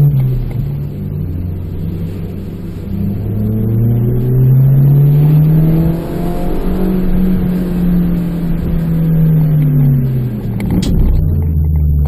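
Suzuki Swift Sport's 1.6-litre four-cylinder engine heard from inside the cabin, rising in pitch as the car accelerates, with a break at a gear change about six seconds in, then falling away as the car slows. A short sharp click comes near the end.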